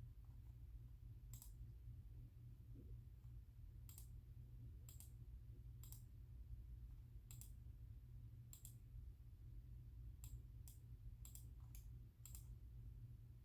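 Faint, scattered single clicks at a computer: about a dozen separate clicks spaced unevenly, over a steady low hum.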